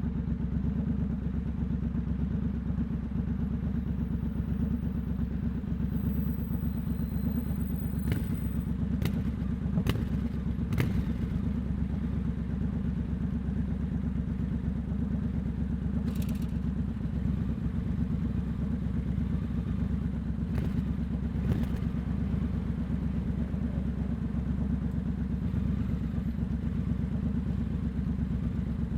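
Triumph Scrambler 1200 X's parallel-twin engine running steadily at low revs through a loud aftermarket Hitchcox exhaust, with a few short clicks about a third of the way in.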